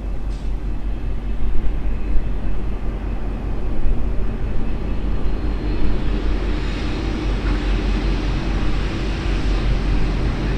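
V/Line N class diesel-electric locomotive running, a deep steady rumble with a low drone; a hiss builds about six seconds in.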